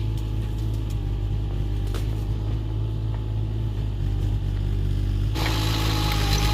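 Excavator's diesel engine running steadily at an even pitch. About five seconds in, a hiss above it gets suddenly louder and stays.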